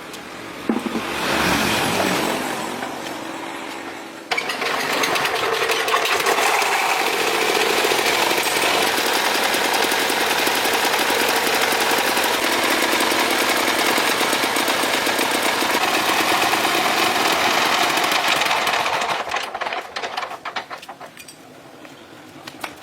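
Restored 1980 MP4 diesel engine running with a fast, hard clatter: after a short rise and fall of sound at the start, it comes in loud and steady about four seconds in, then dies away near the end.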